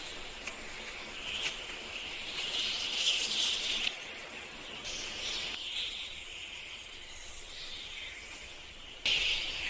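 Forest ambience: a steady high hiss of insects chirring, with a sudden louder shift near the end.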